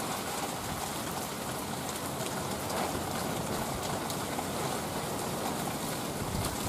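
Heavy rain falling steadily, with water dripping from the edges of a palm-leaf thatched roof overhead.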